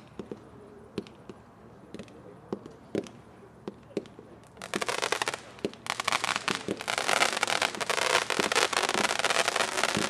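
Scattered single sharp pops, then about four and a half seconds in a dense, fast crackling firework effect starts, falters briefly, and continues as a thick, loud crackle from the Black Bird consumer firework.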